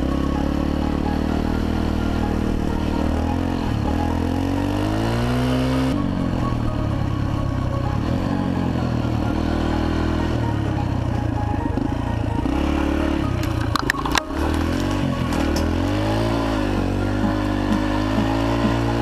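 Yamaha TT-R125's small single-cylinder four-stroke engine running under riding, its pitch rising and falling as the throttle is worked. There is a brief clatter about fourteen seconds in.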